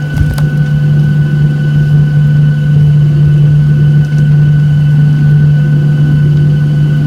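Inside the cabin of a Boeing 737-800: the jet engines running steadily, a loud low hum with a thin high whine over a rushing noise, and a short click just after the start.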